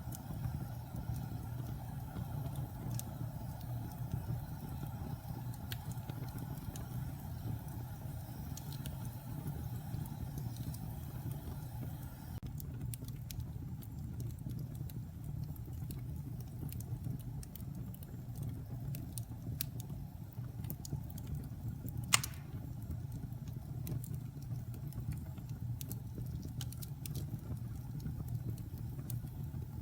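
Wood fire burning in a fireplace: a steady low roar with scattered small crackles, and one sharp pop about 22 seconds in.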